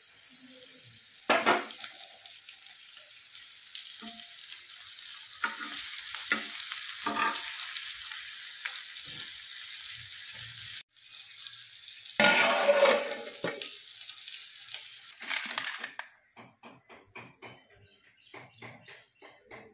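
Food sizzling and frying in a pan, with spoon stirring and occasional knocks of utensils on metal; there is a louder stretch of stirring about twelve seconds in. Near the end the sizzling gives way to soft background music with a steady beat.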